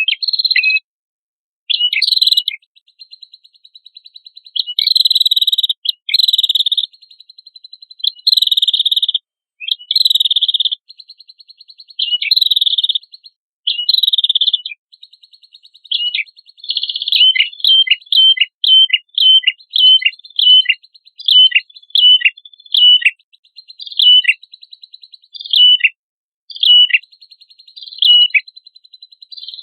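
A small songbird singing loud, high, buzzy trills broken by sharp falling notes. In the second half the song turns into a quick series of short downslurred whistles, about two a second.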